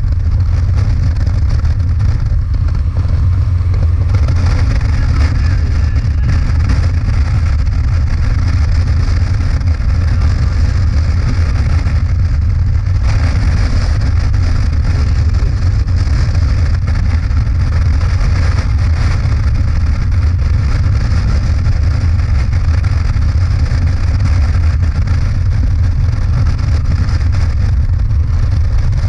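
Motorcycle cruising at a steady speed: a constant engine drone with rushing wind and road noise, with no change in revs.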